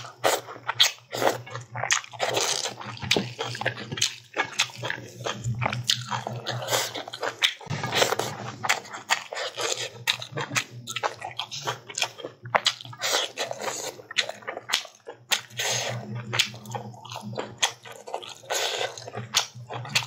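Close-miked wet chewing and lip smacking from a person eating rice and lai xaak greens by hand, with many quick clicks and squelches throughout.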